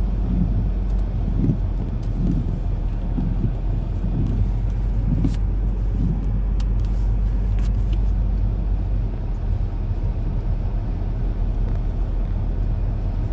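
A steady low engine hum, like a motor vehicle running nearby.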